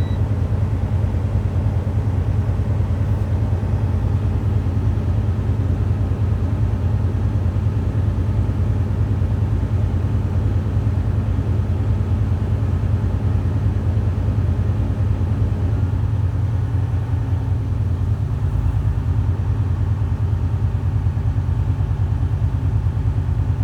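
Truck diesel engine running steadily at high idle, a constant low rumble, while it builds air pressure for the air-brake system's build-up test.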